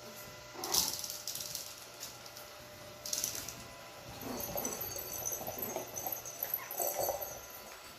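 Chihuahua puppies playing: scuffling, with a sharp rustle about a second in and another about three seconds in, then a stretch of small dog noises and faint high squeaks.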